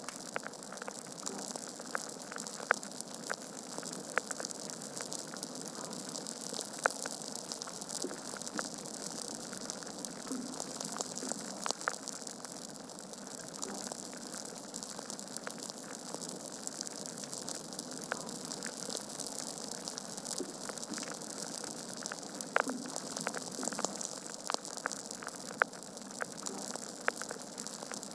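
Burning logs crackling in a fireplace: a steady hiss with frequent sharp crackles and a few louder pops scattered through.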